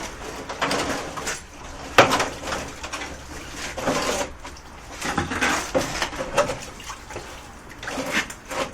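Irregular handling noises: knocks, clanks and scraping, with a sharp knock about two seconds in.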